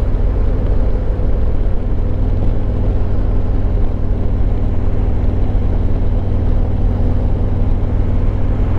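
Harley-Davidson Road Glide Limited's Milwaukee-Eight 114 V-twin running steadily while cruising at an even speed.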